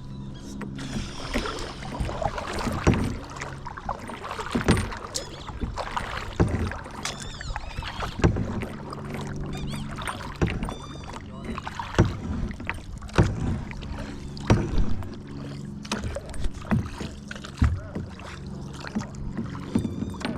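Kayak paddling: the paddle dips and splashes with a knock on the hull about every second or so, over a low steady hum.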